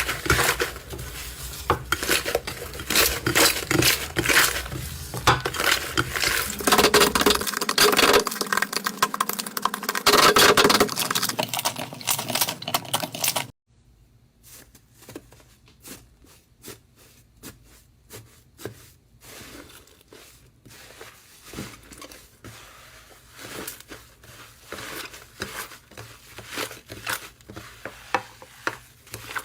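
Slime being squished and worked by hand, with dense crackling and clicking. About halfway through it cuts abruptly to a quieter clip of softer, sparser clicks and pops.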